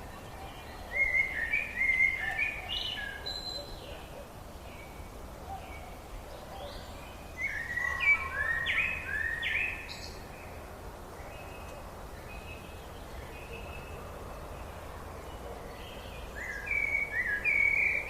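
A songbird singing three short phrases of quick, clear notes, several seconds apart, over a steady low background noise.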